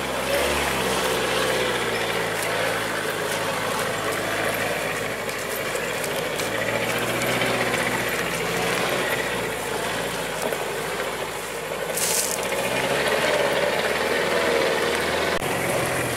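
Truck engine running steadily with rattling and clattering, with a brief hiss about 12 seconds in.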